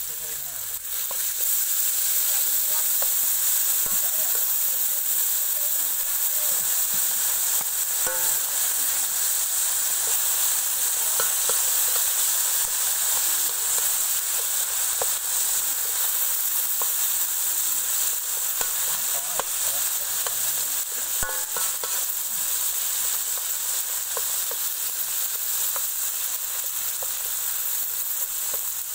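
Food sizzling in hot oil in a metal wok, stirred with a metal spoon that scrapes and clicks against the pan. The sizzle grows louder about a second in and then holds steady.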